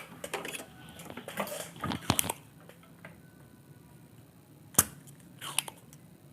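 Small parts and tools being handled at a repair bench: scratchy, crunching rustles for about two seconds, then one sharp click a little before the end, followed by a brief rustle.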